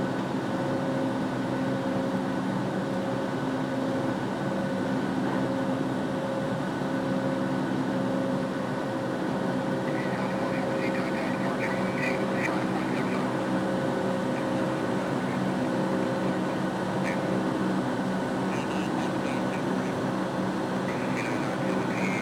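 Steady drone of a Boeing 757's jet engines and cabin air, heard from inside the cabin, an even hum with a few held tones that neither rises nor falls.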